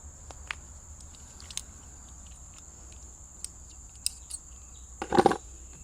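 Light metallic clicks and taps of Allen keys and tools being handled, with a louder clatter about five seconds in, over a steady high drone of insects.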